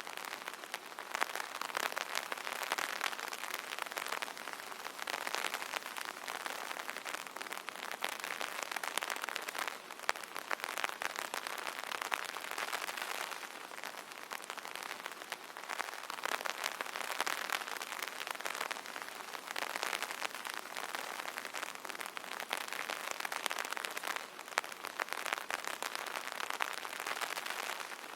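Rain pattering steadily on an umbrella canopy, a dense hiss of fine drop ticks that swells and eases every few seconds.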